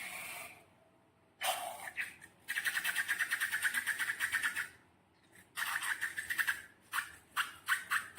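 Slime being worked by hand, giving bursts of rapid sticky crackling, then slower separate squelching clicks near the end.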